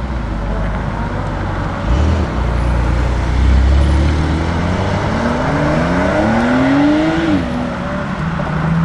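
Lamborghini Huracán STO's naturally aspirated V10 engine running, its note climbing steadily in pitch for about two seconds as the car accelerates, then dropping sharply near the end.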